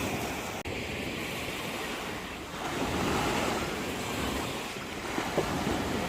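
Sea waves washing, with wind buffeting the microphone; the wash swells a little about halfway through.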